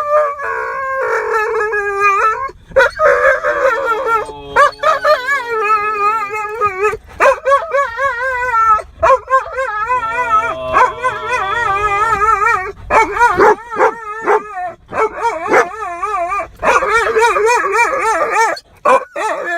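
A dog whining and howling in long, high, quickly wavering cries, broken again and again by sharp yips and barks: frantic excitement at the sight of birds.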